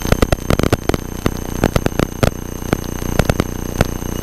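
Electrical interference on a light aircraft's cockpit audio feed: a rapid, irregular clatter of clicks and crackles over a steady hum, with a few fixed high-pitched tones.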